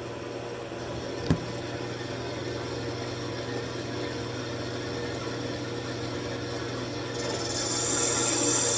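Wood lathe motor running with a steady hum, with a single sharp knock about a second in. Near the end a tool starts rubbing on the spinning wood, adding a steady high hiss.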